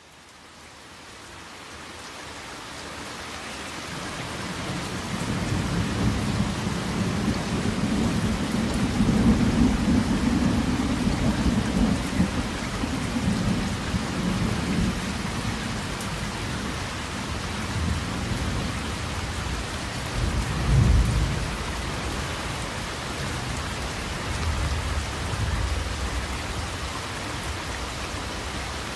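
Steady rain with thunder, fading in over the first few seconds. A long low rumble of thunder builds from about five seconds in, a sharper thunderclap comes about two-thirds of the way through, and a softer rumble follows near the end.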